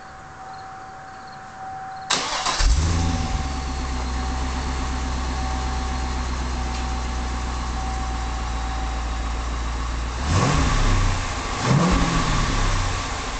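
2005 Cadillac CTS-V's 5.7-litre LS6 V8 through its stock exhaust: cranked and started about two seconds in, flaring up before settling to a steady idle. Near the end it is blipped twice, rising and falling each time.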